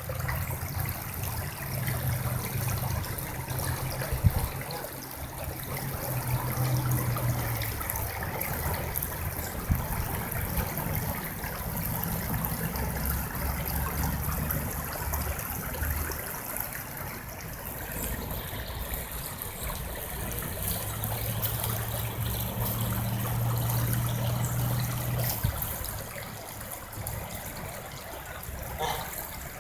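Flowing water running steadily, like a stream or trickle. A low hum comes in and fades away twice.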